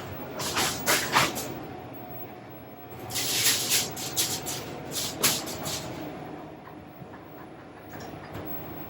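A large plastic bag being opened and handled, crinkling and rustling in two spells of irregular bursts.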